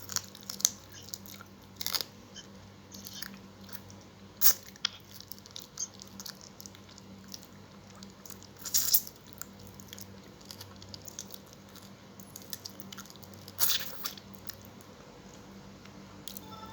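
Close-up eating sounds: chewing and biting food, with irregular crisp crunches and mouth clicks. The louder crunches come about two, four and a half, nine and fourteen seconds in.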